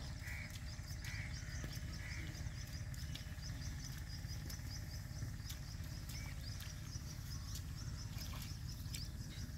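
Rural outdoor ambience: small birds chirping in a quick repeated series, with a few lower calls in the first two seconds, over a steady low rumble.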